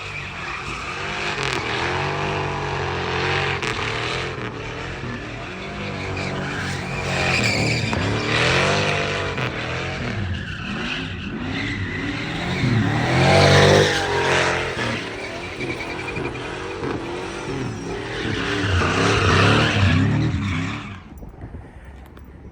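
Car engines revving up and down, with tyre squeal. The sound stops abruptly near the end.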